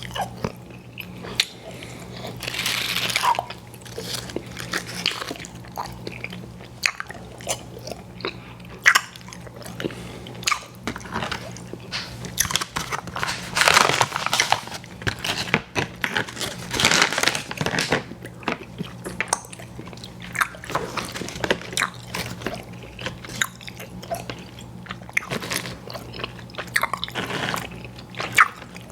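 Close-miked chewing of chewy fruit candy: a run of wet mouth clicks and smacks, with louder stretches of chewing about three seconds in and again from about 13 to 17 seconds. A faint steady low hum sits underneath.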